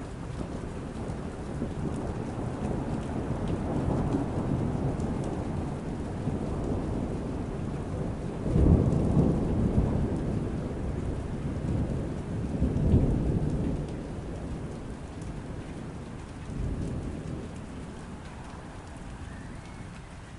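Steady rain with rolling thunder. The rumbles build over the first few seconds, peak loudest twice around the middle, then die away, with a weaker rumble near the end.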